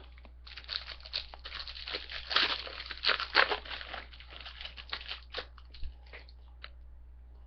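Foil trading-card pack wrapper crinkling and crackling as it is handled and opened, for about five seconds, then a few light clicks near the end.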